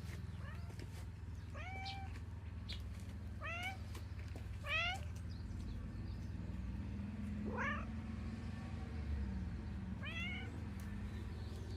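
A cat meowing repeatedly: about six short meows, with a longer one rising in pitch about eight seconds in. A steady low hum runs underneath.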